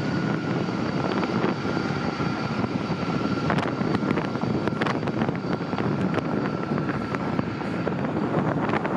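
Jet airliner engines running, a steady rumble with a thin high steady whine over it.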